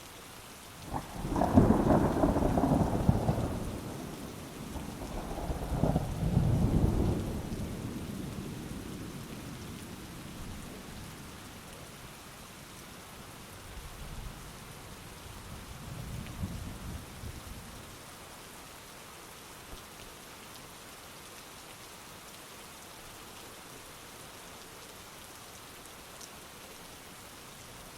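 Heavy rain falling steadily, with a loud peal of thunder about a second in and a second rolling rumble a few seconds later that fades away slowly. A fainter, more distant rumble of thunder follows midway through.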